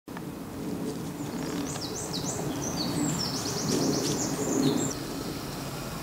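A songbird singing outdoors: a run of short, high whistled notes stepping up and down, breaking into a fast trill near the middle and stopping just before 5 seconds, over a steady low background rush.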